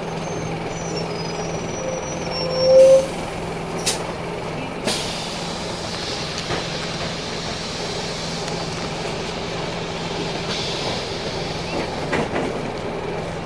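Scania K310 bus diesel engine running steadily. About three seconds in a brief rising squeal ends in a sharp hiss of compressed air, the loudest moment. Shorter clicks and air hisses from the bus's air-brake system follow a second or two later and again near the end.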